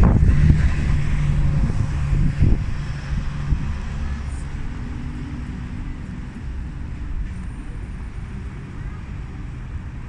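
A motor vehicle's engine rumbling close by for the first few seconds, then fading into steady street traffic noise.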